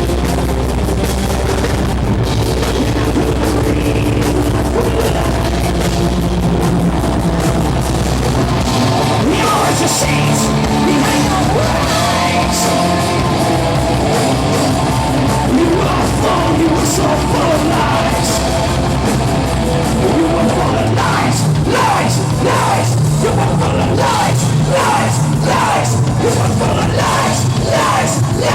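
A live rock band playing loud, hard-edged rock, with a voice singing over it and a steady beat that becomes more pronounced in the last third.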